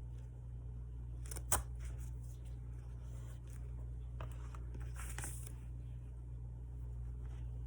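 Quiet desk handling sounds over a steady low hum: a sharp click about a second and a half in and a brief rustle of paper around five seconds in, with a few faint ticks between.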